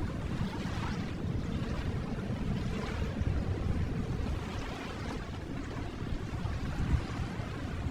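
Ocean waves washing in a steady, gentle surge, a soft rushing noise that rises and falls slowly.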